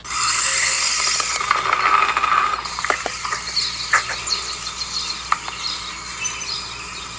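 Homemade RC car, driven by a small electric motor, whirring as it runs across the ground. The loud whir is in the first second and a half and thins out after about two and a half seconds, with scattered clicks and rattles from the car's body.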